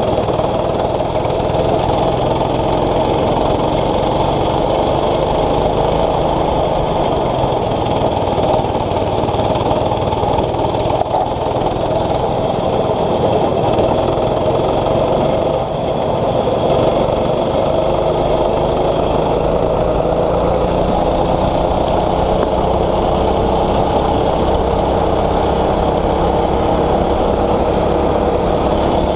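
6.5 hp racing kart engine running under load, its pitch rising and falling over and over as the kart speeds up and slows.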